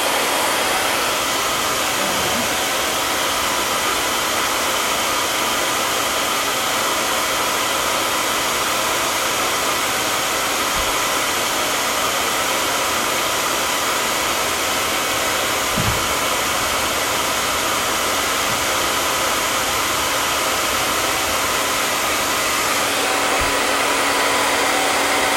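Handheld blow dryer running steadily: a continuous airy whir with a faint motor whine.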